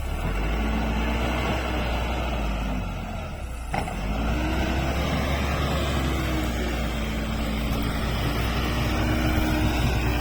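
Backhoe loader's diesel engine running, its note rising and falling as the machine works, over a steady deep rumble. There is a brief dip and a single knock a little over three seconds in.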